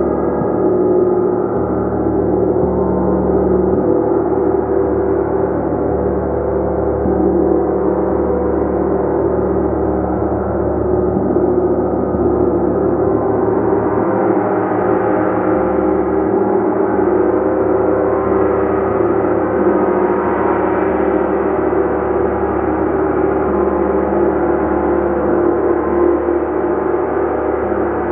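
A gong played continuously, building a steady, loud, dense wash of many overlapping sustained tones with no pause.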